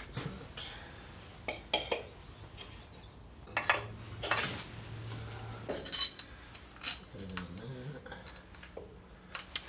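Small steel parts and tools clinking and knocking together as they are handled and fitted by hand, in irregular single knocks; one clink rings briefly about six seconds in.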